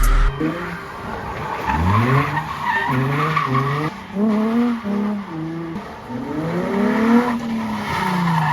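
A drift car's engine revving up and dropping back again and again through a slide, with the tyres skidding on wet pavement.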